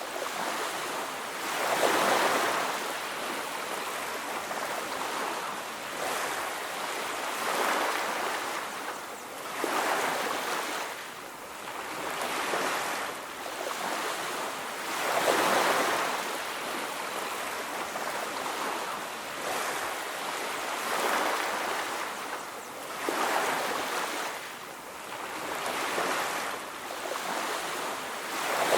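Ocean waves breaking and washing up a beach, one surge after another every few seconds, each swelling and then fading back.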